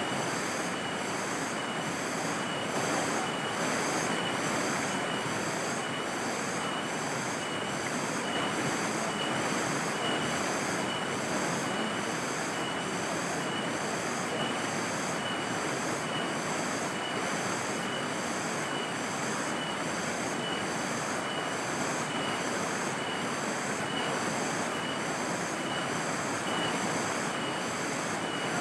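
Steady chorus of night insects: a high-pitched pulsing trill, about one and a half beats a second, over a constant hiss.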